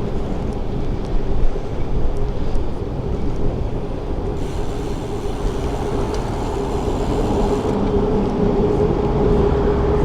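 Wind rushing over an action camera's microphone while cycling in traffic: a steady low rumble with a faint steady hum, and a thin hiss joining for about three seconds in the middle.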